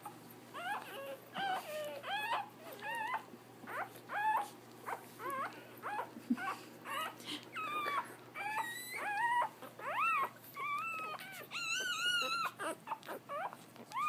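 Newborn puppies whimpering and squealing: many short, high-pitched cries in quick succession, some overlapping, with a louder burst of several cries about twelve seconds in.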